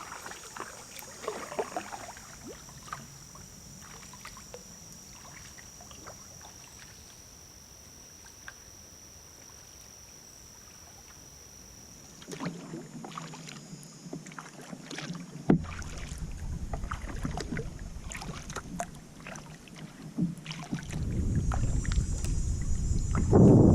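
Kayak paddling on a lake: paddle strokes in the water with scattered splashes and drips, and wind rumbling on the microphone that grows loud near the end. In the first half, before the paddling, a steady high-pitched insect drone.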